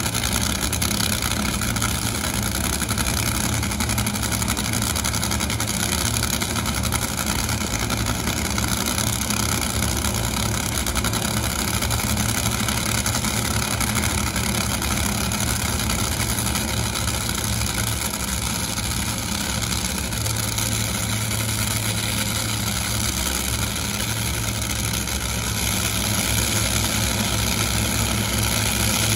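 Drag-racing engine idling steadily and evenly, with no revving or changes in pitch.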